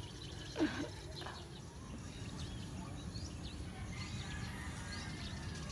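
Steady outdoor background rumble with faint, scattered bird chirps.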